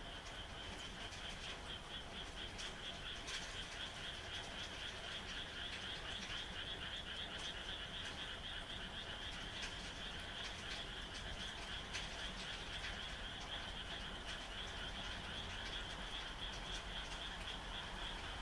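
A chorus of frogs calling in a continuous, fast-pulsing high trill, over the steady hiss of rain with scattered drips.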